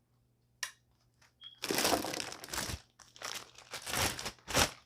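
Plastic packaging being crinkled and rustled in several loud bursts while a vacuum attachment is unwrapped, after a single click about half a second in.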